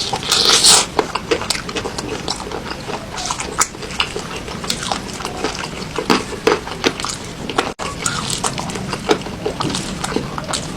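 Close-miked eating sounds: a loud slurp in the first second, then wet chewing and lip smacks with many small sharp mouth clicks.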